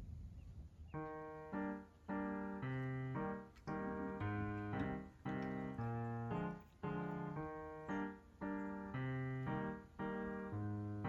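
Background piano music, starting about a second in with a steady run of chords changing roughly every half second to second.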